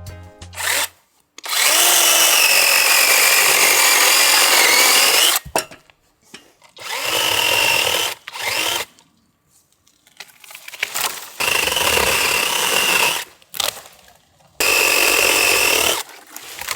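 Battery-powered brushless top-handle chainsaw (Onevan dual-battery, 16-inch bar) cutting wood in four bursts of a few seconds each, with pauses between. It makes a high electric motor whine over the rasp of the chain, and the pitch wavers as the chain bites.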